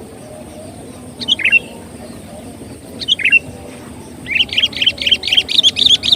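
Sooty-headed bulbul (kutilang) calling: two short calls, about a second in and about three seconds in, then a fast run of chattering notes from about four seconds in.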